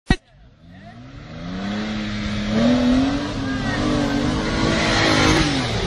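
Off-road SUV engine revving hard, its pitch climbing over the first couple of seconds, holding high, then falling away near the end. A sharp click comes at the very start.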